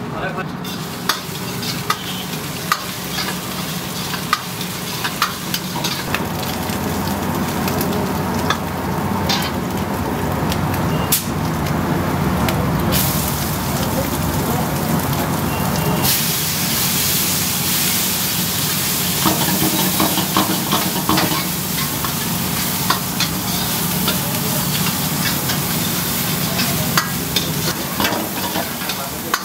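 Garlic and onion sizzling in hot oil in a black steel wok, with a steel ladle stirring and clinking against the pan. The sizzle grows louder about 13 seconds in and again about 16 seconds in, as more chopped onion goes into the oil.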